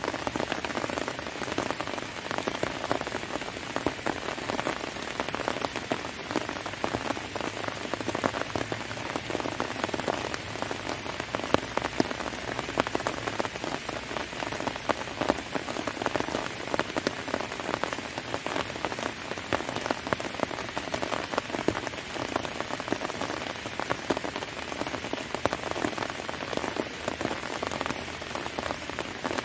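Heavy rain falling, a dense steady patter of individual drops striking a surface.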